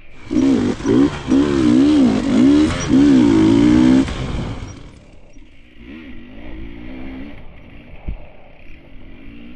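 KTM enduro motorcycle engine revving hard and unevenly, its pitch rising and falling for about four seconds, then dropping back to a quieter, lower run. A single low thump comes near the end.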